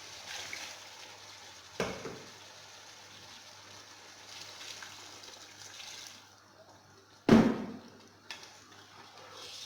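Water being poured into a pot of chicken stew, a steady splashing hiss for about six seconds, with a knock near the start. It is followed by a loud metallic knock of a pot or utensil about seven seconds in.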